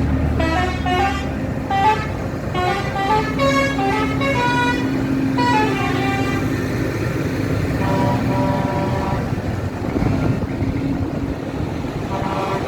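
Vehicle horns tooting a quick series of notes at changing pitches over engines running steadily, with more horn blasts about eight seconds in and near the end.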